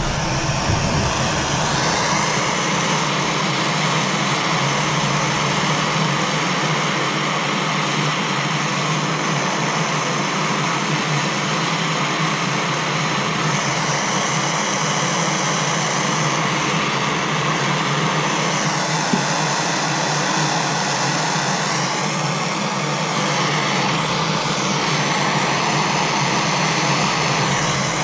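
Handheld gas torch flame hissing steadily as it heats a brass shower valve's copper joints for soldering, with faint high whistling tones that shift in pitch now and then.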